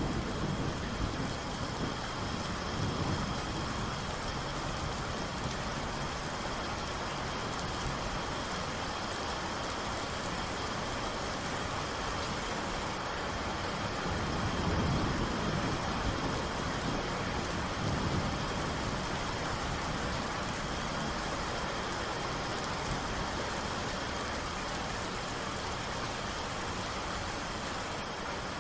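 Steady rain with low rolls of thunder swelling up at the start and again about halfway through.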